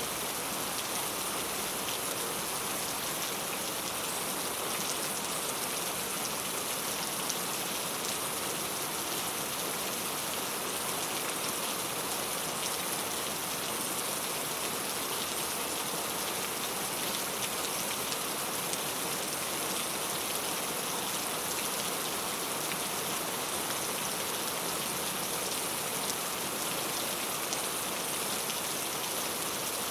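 Rain falling steadily on a clay-tile roof: an even hiss with a dense patter of drops, no thunder.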